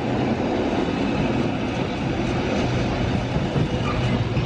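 Train running, a steady rumble with a low, even hum underneath.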